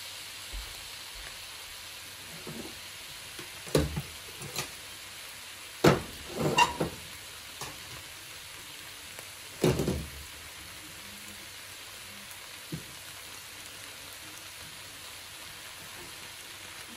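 Beef, peas and carrots sizzling steadily in a pot on the stove, with a few loud clattering knocks of cookware about 4, 6 and 10 seconds in as a pot of rice and its glass lid are set down and handled.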